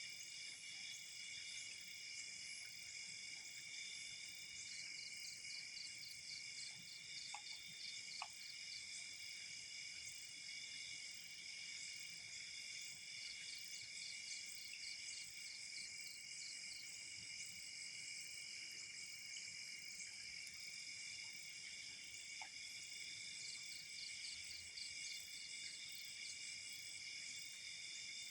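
Night chorus of crickets and other insects: several steady, high-pitched trills overlap, and a faster pulsing trill comes and goes in stretches of a few seconds. A few faint ticks stand out, about a third of the way in and again later.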